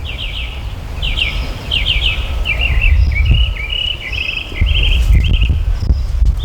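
A songbird singing in repeated rapid trills and chattering phrases, over the low rumble of wind buffeting an unshielded microphone.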